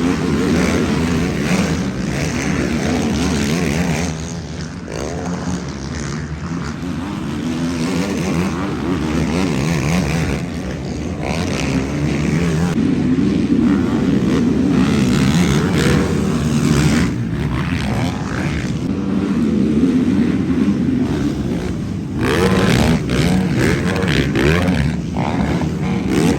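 Racing ATV quads on a motocross track, their engines revving up and down as they go by. The sound swells and fades as the machines pass.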